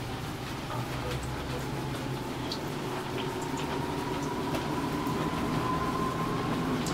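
Steady rain with scattered drips, under a low rumble and a faint whine that slowly rises in pitch from about halfway in as the sound grows gradually louder, like a vehicle approaching.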